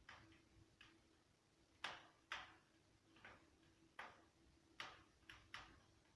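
Softwood logs burning in a Meta Elba 700P fireplace insert, crackling with about ten sharp, irregularly spaced pops, the loudest about two seconds in.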